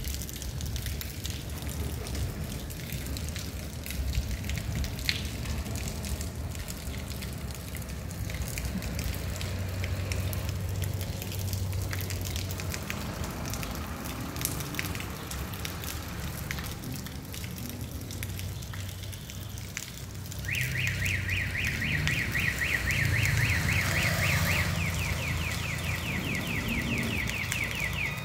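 Steady rain falling on a cobbled street and rooftops, with a low rumble underneath. About two-thirds of the way in, a high, rapidly pulsing tone joins and continues to the end.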